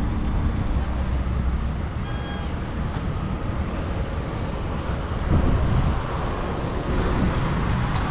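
Steady rumble of road traffic passing, with a short high tone about two seconds in and a fainter one about six and a half seconds in.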